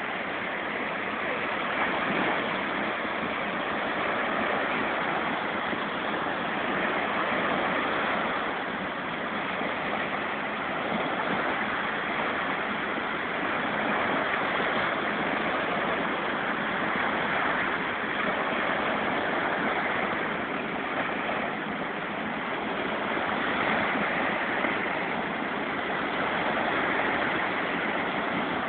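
Sea waves washing onto the shore: a steady rushing of water that swells and eases every few seconds.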